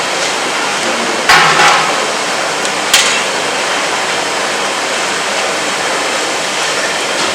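A steady hiss with two sharp knocks about a second and a half apart, the first with a short ringing tail.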